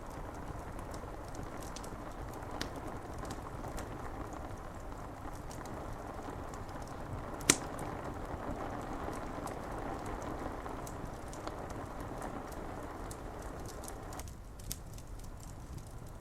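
Steady rain on window glass with a wood fire crackling: scattered small pops throughout and one sharp, loud crack about halfway through. The rain hiss drops back near the end.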